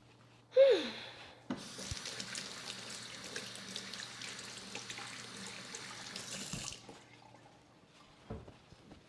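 A short squeak sliding down in pitch, then a tap running water into a sink for about five seconds before it is shut off.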